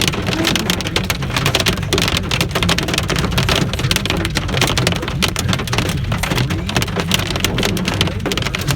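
Pea-sized hail hitting a car's roof and windshield in a dense, continuous patter of sharp hits, heard from inside the car over the steady low rumble of the car on the road.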